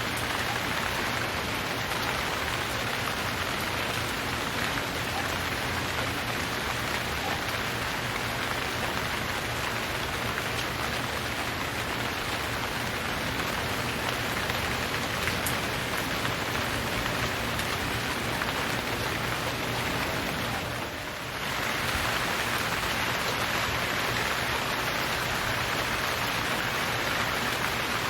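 Steady rain, from a recorded rain sound effect, with a brief dip in level about three-quarters of the way through.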